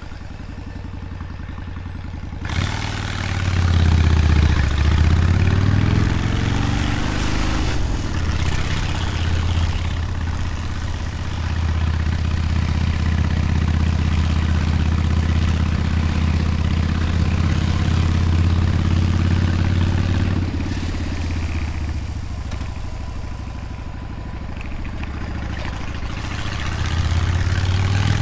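Motorcycle engine running under way, its pitch climbing and dropping as the throttle opens and closes, with wind rushing over the microphone that comes up sharply a couple of seconds in.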